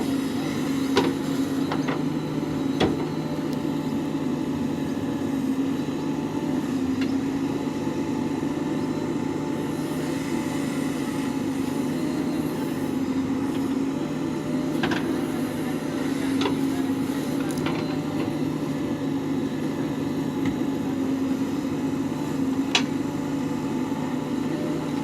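Diesel engine running steadily, with a few short sharp knocks now and then.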